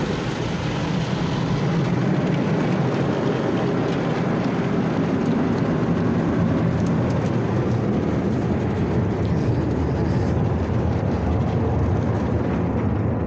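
Belanger Freestyler soft-touch car wash brushes spinning against the car, heard from inside the cabin: a loud, steady churning rumble, easing slightly in its upper range near the end.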